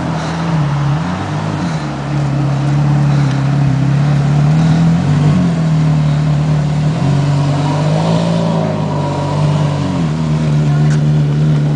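Porsche Carrera GT's V10 engine through AWE Tuning straight-pipe exhaust, running at fairly low, steady revs while driving. The pitch dips and rises gently a few times as the throttle changes.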